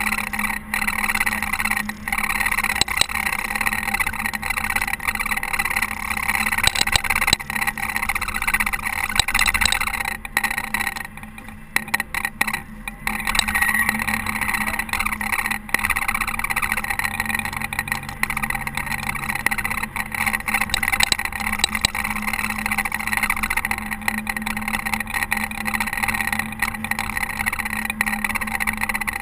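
Caterpillar TH330B telehandler running steadily while snowplowing, a continuous engine drone with a rushing noise over it that eases briefly about eleven seconds in.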